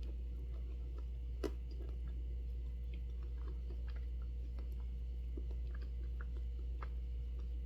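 Close-miked eating of a fruit ice pop: soft bites and chewing with small scattered mouth clicks, one sharper click about a second and a half in. A steady low hum sits underneath.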